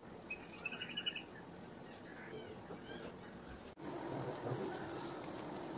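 Birds chirping in the background: a few quick high chirp phrases in the first second or so, then fainter calls. The sound drops out for an instant just before four seconds in, at a cut, and comes back as a louder, busier background.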